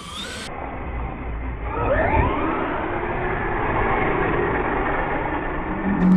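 Electric motor of a radio-controlled monster truck whining up in pitch as it accelerates hard about two seconds in, then running on at speed with steady motor and tyre noise.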